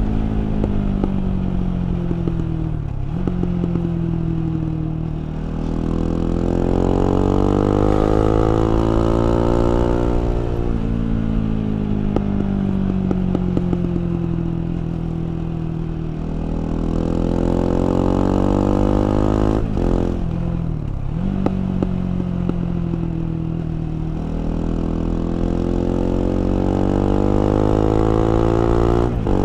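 KTM 690 Duke's LC4 single-cylinder engine under way, repeatedly winding up in pitch under throttle and falling back as the throttle closes, about three times over, with an abrupt break in the note near the middle.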